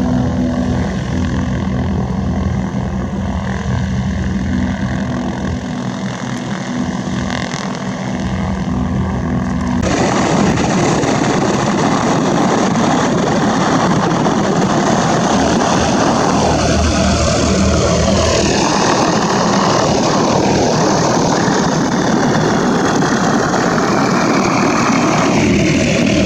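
Propeller aircraft engine running steadily with a droning pitch. About ten seconds in, the sound changes abruptly to a louder, rushing engine noise.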